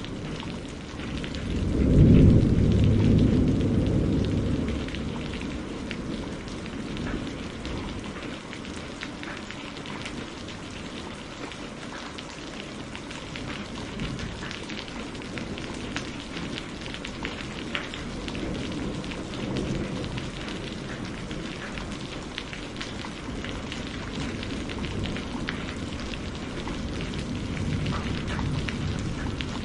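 Steady rain falling, a dense hiss flecked with individual drop ticks. About two seconds in a loud, low thunder rumble swells and fades over a few seconds, and fainter low rumbles return later.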